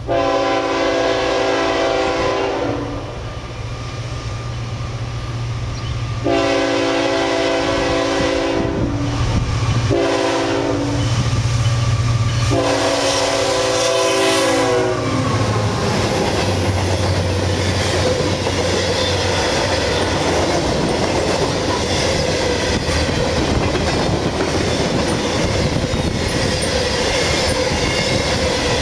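CSX freight train passing at speed. The lead diesel locomotive's multi-chime air horn sounds long, long, short, long, the grade-crossing warning pattern. Then the locomotives' engines drone by and covered hopper cars follow with steady wheel clatter on the rails.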